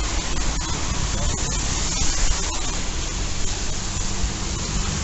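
Steady, loud rushing noise with a few faint clicks.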